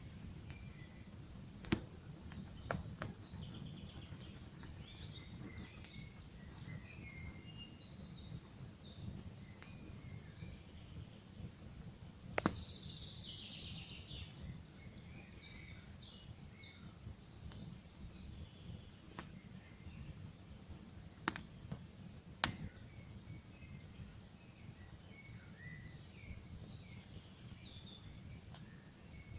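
Campfire crackling, with sharp pops about two seconds in, once near the middle and twice a little later, while small birds chirp and twitter throughout.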